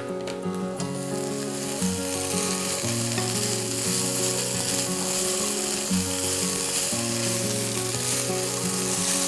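Beef strips and julienned vegetables sizzling steadily in a hot frying pan as they are stirred and tossed with chopsticks, the sizzle filling in about half a second in. Soft background music plays underneath.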